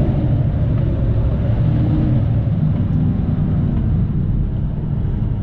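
Semi truck's diesel engine pulling steadily, a low rumble heard from inside the cab, its engine tone shifting slightly partway through.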